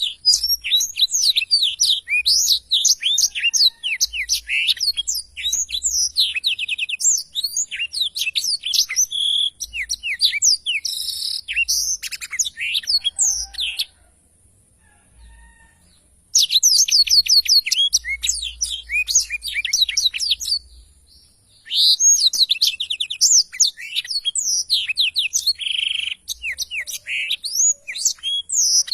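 Black-throated canary singing long, rapid songs of quick falling chirps, with two short breaks between them.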